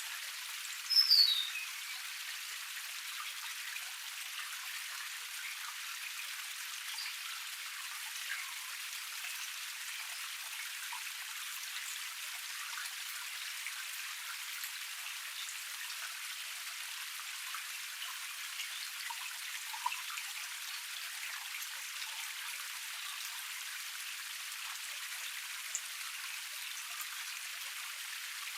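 Small forest cascade running steadily, an even, bright hiss of falling and trickling water with no low rumble. About a second in, a bird gives one loud, short call that falls in pitch.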